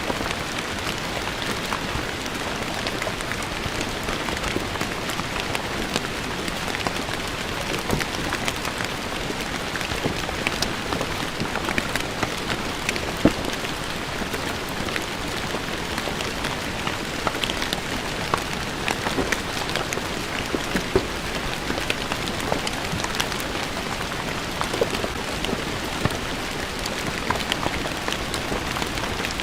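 Steady rain falling on a stone floor: an even hiss of rain with many separate drops spattering close by.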